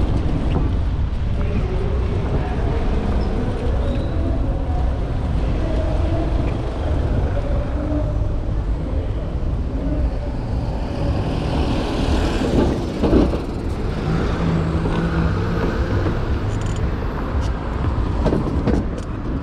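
City street traffic passing, with a steady low rumble throughout. A louder hissing swell rises and peaks about thirteen seconds in.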